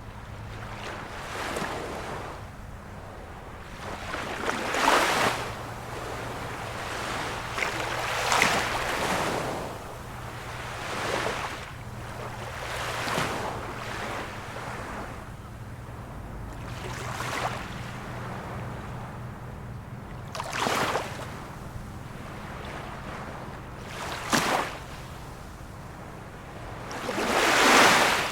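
Small waves of a calm sea breaking and washing ashore, one swell every few seconds, the loudest near the end. A faint steady hum runs underneath.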